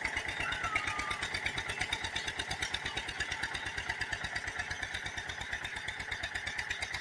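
Eicher 242 tractor's diesel engine running steadily with an even, rapid firing beat while it pulls an implement forming field beds.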